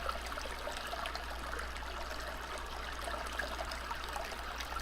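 Trickling, babbling stream water playing steadily as a nature-sound background, with a constant low hum underneath.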